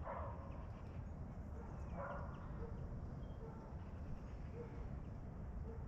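A dog barking faintly in the distance, a few short barks roughly a second apart, over a steady low outdoor rumble.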